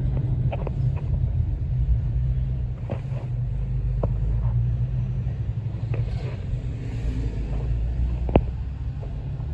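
Steady low rumble of a road vehicle or highway traffic, with a few sharp clicks or knocks scattered through it.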